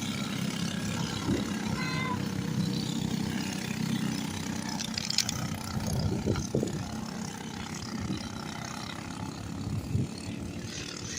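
Small racing engines running on the track, a steady mixed drone of several engines at once.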